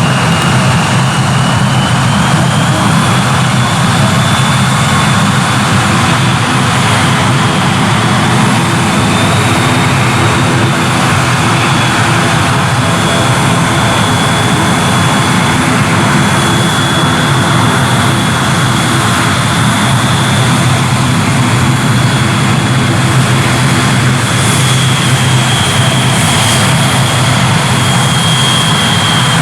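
Airliner engines running steadily, a loud continuous rush with a high whine that rises slightly over the first few seconds and then holds.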